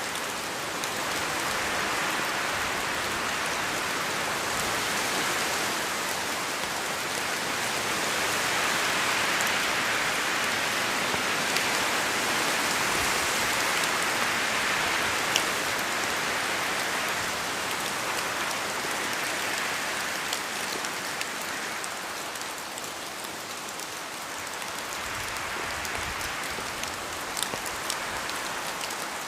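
Steady rain falling in a forest, with scattered single drops tapping out of the trees. The hiss swells and eases over several seconds, louder through the middle and dipping about three-quarters of the way in.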